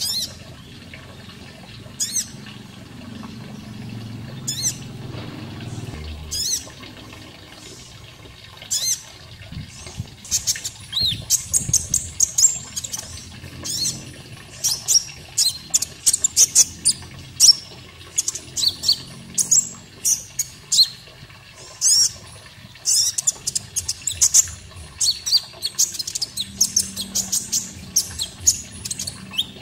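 Konin bird calling: short, high, quickly falling chirps, scattered singly for the first ten seconds and then coming in rapid, dense runs. A faint steady water sound runs underneath.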